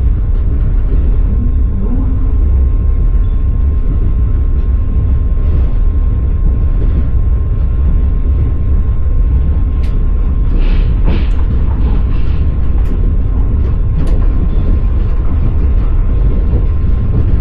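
Passenger train carriage running along the rails, heard from inside: a steady, loud low rumble of the wheels and car, with a few light clicks about ten to fourteen seconds in.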